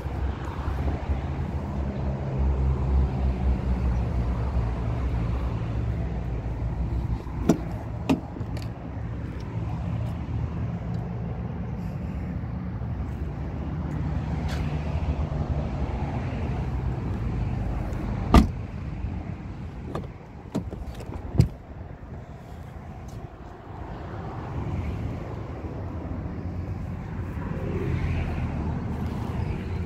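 A car engine idling steadily, with a few sharp clicks and knocks from car doors being opened and handled. The loudest knock comes about eighteen seconds in.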